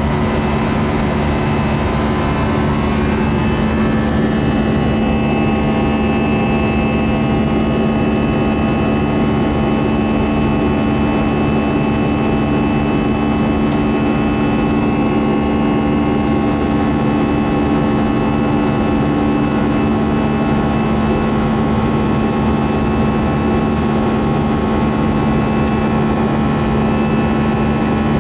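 Airbus A320 in flight heard from inside the cabin: a steady drone of jet engines and airflow with several constant hum tones; one of the lower hums fades out about two-thirds of the way through.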